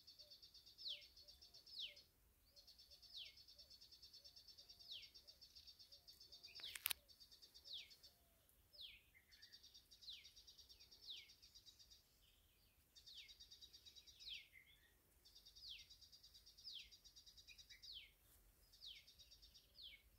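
Birds calling in the open: a high, rapid trill in runs of two to three seconds with short gaps, and quick falling high notes about once a second. A single sharp click comes about seven seconds in.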